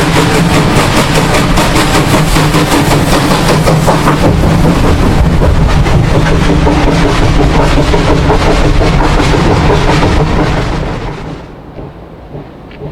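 Steam locomotive working hard at close range, its exhaust beats coming in a rapid, even rhythm; the sound falls away suddenly about eleven seconds in.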